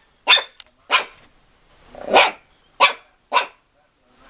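A dog barking five times in short, sharp barks spaced irregularly about half a second to a second apart.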